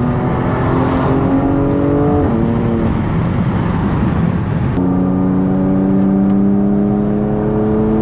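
Car engine under acceleration on the highway, its pitch climbing slowly, dropping briefly about two seconds in as it shifts gear, then climbing steadily again through the rest of the pull.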